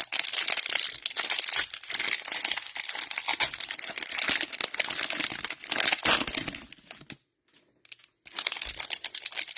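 Cello plastic card-pack wrappers being torn open and crinkled by hand, a dense crackling that stops about seven seconds in and starts again about a second later.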